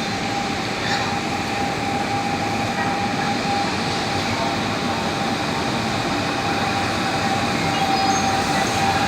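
A train running past on an elevated track overhead: a steady rumble of wheels and track noise with a steady high-pitched whine on top.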